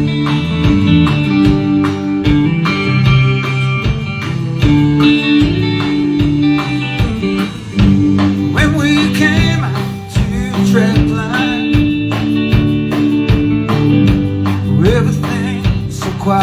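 Live band playing an instrumental passage on guitars, bass and drum kit, with a steady beat and sustained bass notes.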